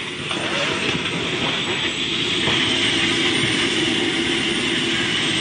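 Steady vehicle running noise, dense and heaviest in the low range, holding an even level without any sharp impact.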